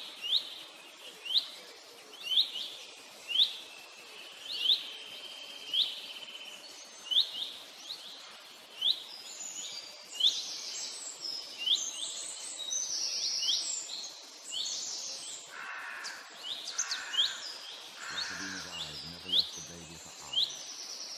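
Wild birds calling: a short, sharply rising chirp repeated about once a second, joined by other, higher chirping from about nine seconds in. Near the end a low, pitched call comes in.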